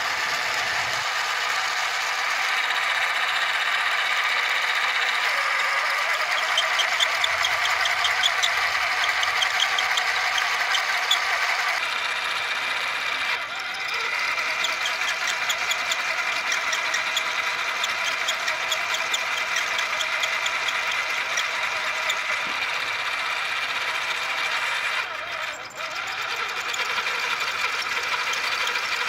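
Small motor-driven mechanism running steadily with a fast mechanical rattle, dipping briefly twice, once about halfway through and again near the end.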